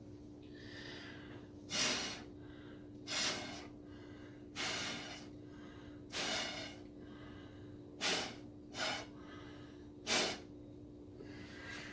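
Short puffs of breath blown through a drinking straw to push wet acrylic pour paint around. There are seven blasts about a second or two apart.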